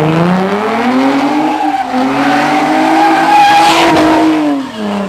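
A V8 muscle car's engine revving high and held there while its rear tyres squeal under wheelspin; the revs climb at the start and drop away near the end.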